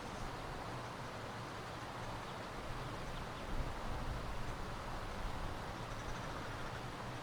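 Steady outdoor bush ambience with a low rumble underneath and a few faint, brief distant bird calls.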